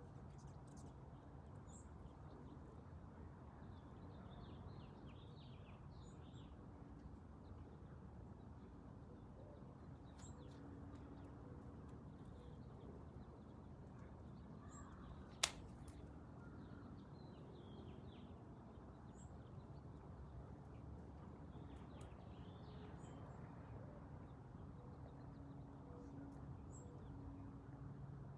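Quiet outdoor ambience with a faint steady low hum and a few faint, brief bird chirps in the distance; a single sharp click about halfway through.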